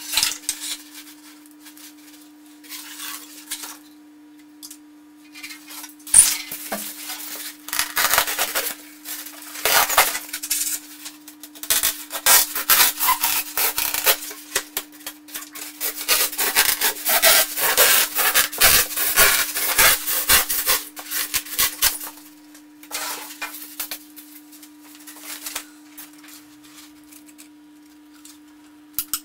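Styrofoam blocks being handled and worked, irregular scratchy rubbing and scraping in bursts, heaviest in the middle, over a steady low hum.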